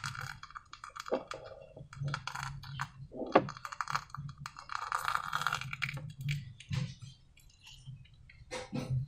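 Hand-handling noises from slime-making: a run of small sharp clicks and taps, with a couple of longer crackly rustling stretches.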